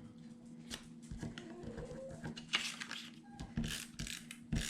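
Paper and cardstock pieces being handled and set down on a work table: scattered rustles and light taps, a few louder ones in the second half.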